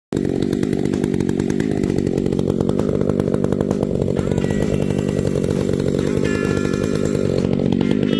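Two-stroke chainsaw running steadily under throttle. A few thin, steady high tones join it about four seconds in.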